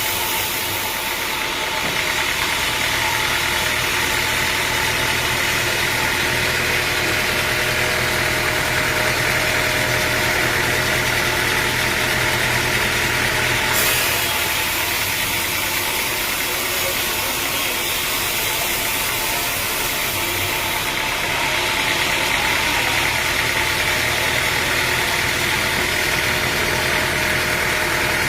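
Sawmill machinery running steadily: a constant mechanical drone with a high hiss over it that shifts twice, about halfway through and again near the end.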